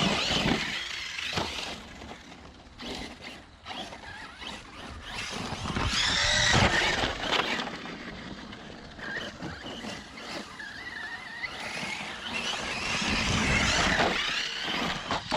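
ARRMA Mojave 6S brushless RC desert truck driving hard off-road: a high motor whine rising and falling with the throttle over the rush of tyres on dirt, in surges that peak about six seconds in and again near the end.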